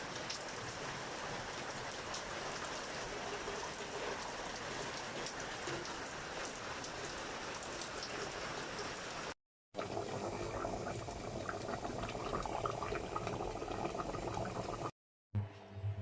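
Steady rain for the first nine seconds or so. After an abrupt cut comes cooking liquid bubbling in a pan, which stops at another cut near the end.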